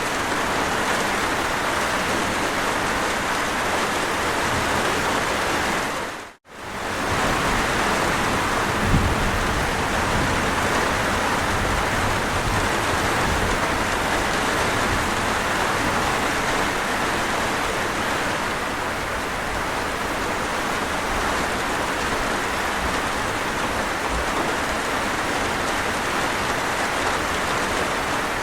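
Steady rain, a dense even hiss of rainfall on surfaces. About six seconds in, it fades out to nothing for a moment and swells straight back.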